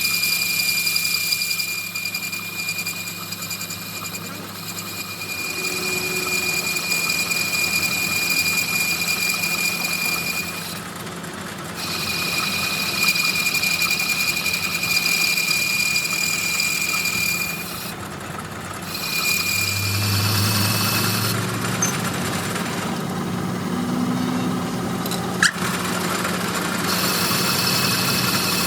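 A workshop machine running with a steady high-pitched whine. The whine breaks off briefly twice and stops about twenty seconds in, leaving a lower hum, with one sharp click near the end.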